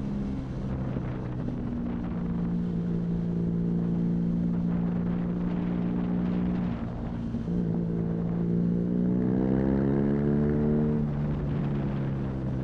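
BMW R nineT's air/oil-cooled boxer twin running through an Arrow exhaust under way, holding a steady pitch at first. There is a brief dip about seven seconds in, then the engine rises in pitch as it accelerates and drops back near the end. Wind rushes over the microphone throughout.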